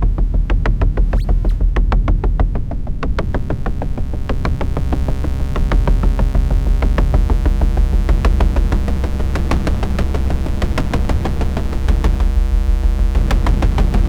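Live electronic noise music: a steady low bass drone under a fast, dense train of clicking pulses.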